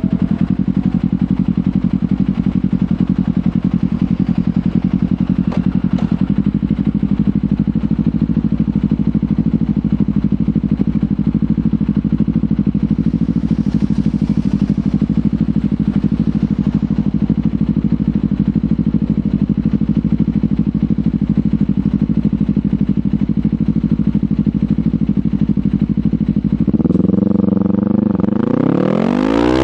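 Kawasaki Ninja 500 parallel-twin engine through a LeoVince GP Corsa Evo slip-on exhaust, running at a steady low speed for most of the time. Near the end the revs climb quickly as the bike accelerates.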